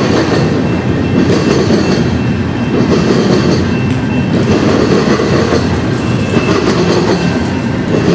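Freight train cars rolling past, their steel wheels running on the rails in a loud, steady rumble.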